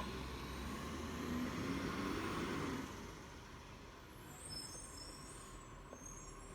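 Rubbish truck running, louder for about the first three seconds and then fading away.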